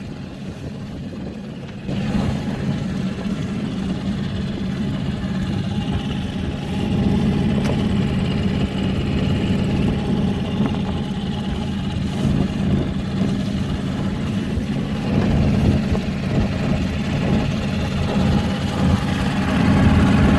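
Yacht's outboard motor running steadily under way, getting louder about two seconds in and holding there.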